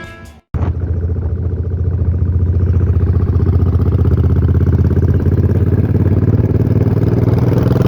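Suzuki Boulevard M800's V-twin engine running steadily with an even low pulse, cutting in about half a second in.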